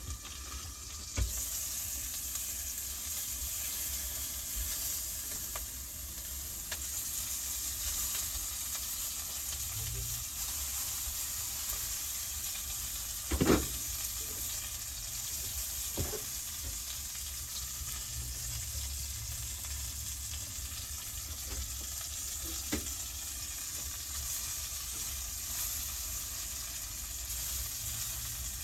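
Cheese smokies sizzling steadily in a frying pan, with a few sharp knocks, the loudest about halfway through.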